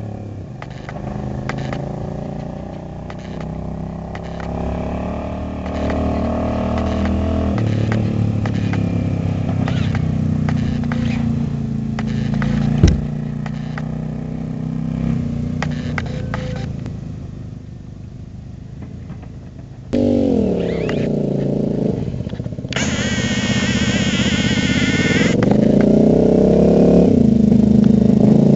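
Motorcycle engine running as it pulls a chariot along a road, its pitch rising and falling with speed and growing louder as it comes closer. There is a single sharp knock about 13 seconds in, the sound jumps abruptly louder about 20 seconds in, and a high wavering whine is heard for a couple of seconds after that.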